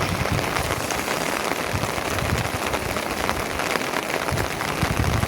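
Steady rain falling on a surface: an even, unbroken hiss.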